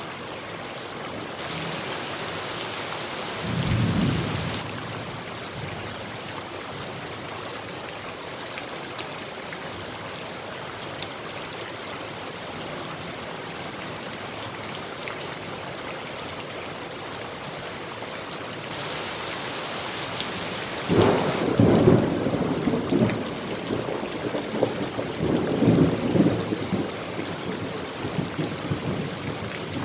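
Steady heavy rain drumming on a tin roof, with a short rumble of thunder about four seconds in and a longer, louder rolling peal of thunder from about twenty-one to twenty-seven seconds.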